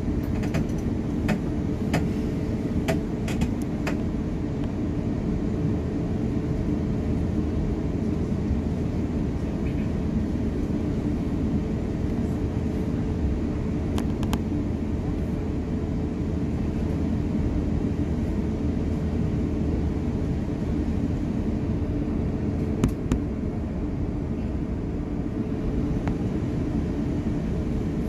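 Steady cabin noise inside an Airbus A350-900: a low, even drone of engines and airflow with a faint hum, and a few small clicks near the start, once midway and again near the end.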